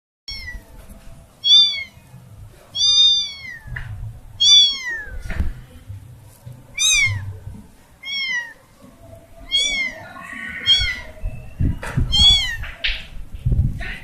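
Kitten meowing again and again, about eight high calls that each fall in pitch at the end, a second or so apart, like a kitten separated from its family. A few soft low thumps fall between the calls.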